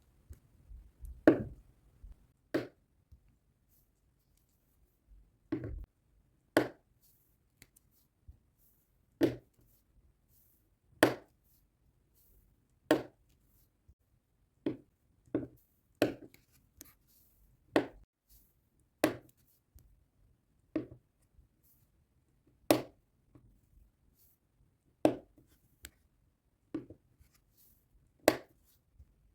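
Short, sharp taps or clicks from diamond-painting work, one every second or two at uneven intervals, about twenty in all.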